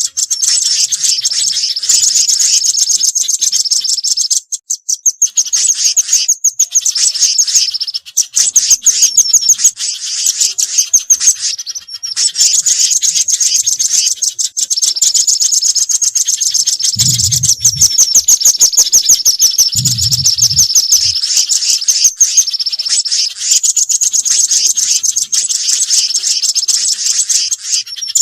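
Bird-lure recording of small garden birds calling nonstop: dense runs of rapid, high-pitched chirps and trills with brief breaks. It is a mixed lure led by velvet-fronted nuthatch calls, with spiderhunter calls. Two short low thuds come about two-thirds of the way through.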